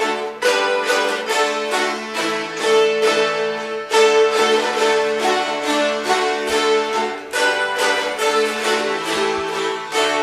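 A group of Appalachian mountain dulcimers strummed together, playing a tune over a steady drone with quick, regular strums.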